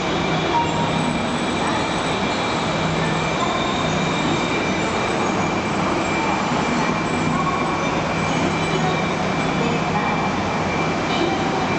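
Max Toki double-decker Shinkansen train pulling into the station. Its running noise is steady, with a thin high whine and a low hum held throughout.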